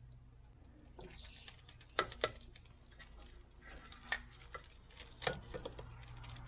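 Scattered light clicks and taps of wiring and hoses being handled and fitted in a car's engine bay. The sharpest are two close together about two seconds in, with two more near four and five seconds, over a faint steady hum.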